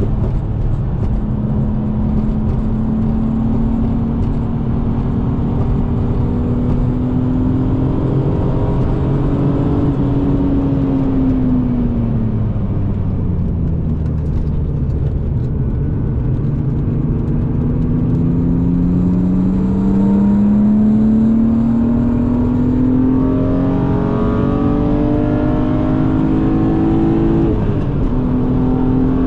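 BMW E36 M3 straight-six engine under load. It holds steady revs, falls off through a mid-lap slowdown, then climbs in one long pull before a sharp drop in pitch near the end, an upshift, with the car's steady road noise under it.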